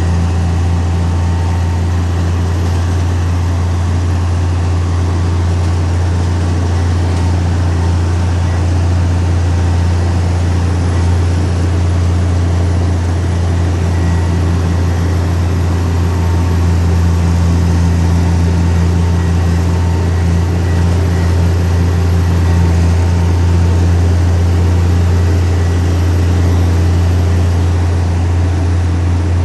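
Heavy diesel engine of earth-moving machinery running steadily: a deep, constant drone that swells slightly in level in the second half.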